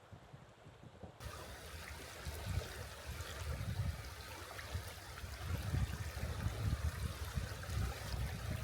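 River water flowing, a steady rushing hiss that comes in fuller after a cut about a second in, with irregular low rumbles underneath.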